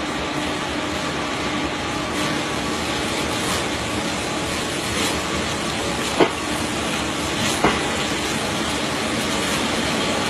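A train running, a steady rushing hiss, with two sharp knocks about six seconds in and a second and a half later.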